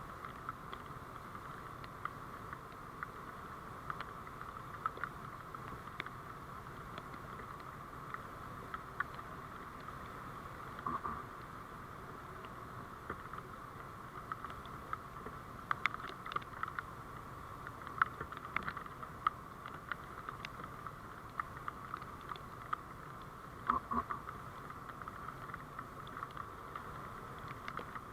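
Steady hum of a moving vehicle picked up by a dashcam microphone, sprinkled with many small clicks and rattles.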